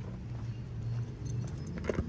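Light metallic jingling over a steady low hum, with one sharp click just before the end.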